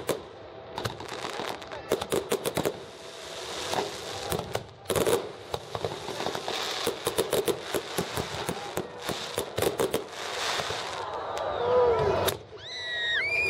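Fireworks going off: many sharp crackling bangs in quick runs over spells of hiss. Near the end a whistling firework rises in pitch.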